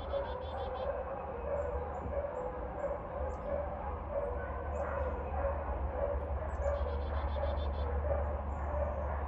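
Dog barking over and over at a steady pace, with short high bird chirps in between and a low steady rumble underneath.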